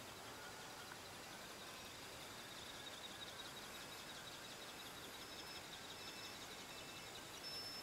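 Faint, steady background hiss with faint high-pitched chirps, and a few short high peeps in the second half.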